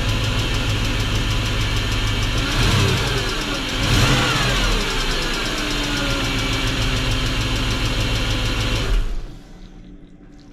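BMW X5 4.4i's M62 V8 engine running with an even, rhythmic knock that the owner suspects may be a worn connecting-rod bearing. It is revved briefly twice, about three and four seconds in, and the sound stops abruptly about nine seconds in.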